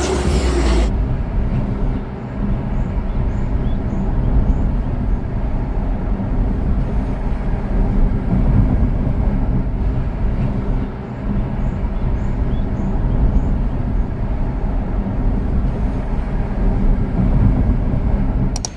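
Steady low rumble of a moving vehicle, with no breaks or changes in pace.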